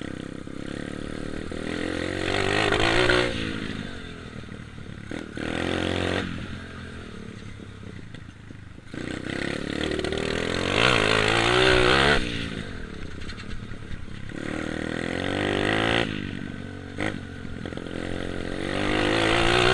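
Dirt bike engine revving up and easing off again and again as it is ridden, with its pitch rising and falling and loud surges every few seconds.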